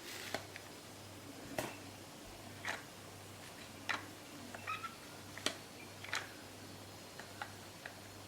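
Scattered sharp clicks and taps of plastic toy parts being handled, with a brief high squeak a little past the middle.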